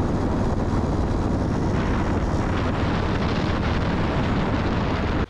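Steady wind rush on the microphone mixed with the running of a Suzuki DR650 motorcycle at highway speed.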